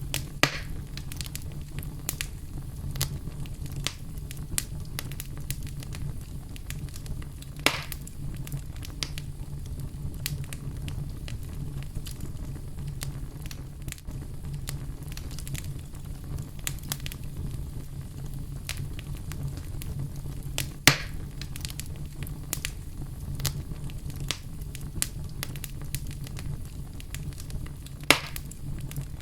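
Wood fire burning in a fireplace: a steady low rumble of flames with frequent small crackles and a few louder pops, the sharpest about 21 and 28 seconds in.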